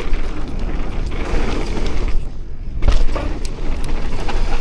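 Mountain bike riding over a rough dirt trail: tyre and frame rattle with a continuous low rumble, and a hard knock about three seconds in.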